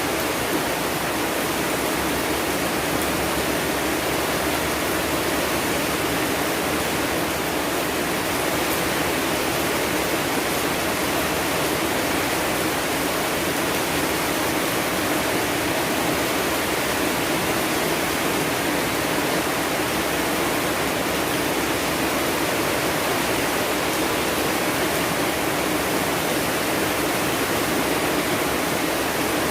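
Steady rain falling, an even continuous hiss with no breaks or separate drops standing out.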